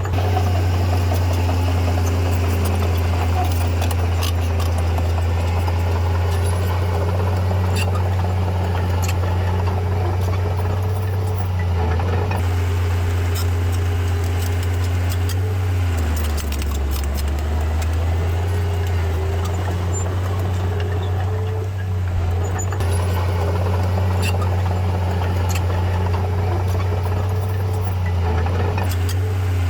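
Diesel engine of a Komatsu D31P crawler bulldozer running steadily under work, its note dropping lower for a couple of seconds about halfway through. Scattered metallic clinks sound over the engine.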